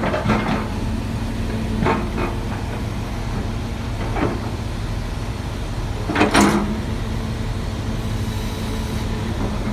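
Volvo EC480 excavator's diesel engine running steadily at idle, with several sharp metal knocks and clanks, the loudest a little past six seconds in, as the bucket is being fitted.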